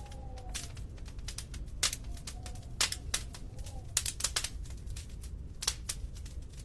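Wood fire in a fireplace crackling, with irregular sharp pops and snaps over a low steady rumble of the flames. A few faint wavering whistles come and go.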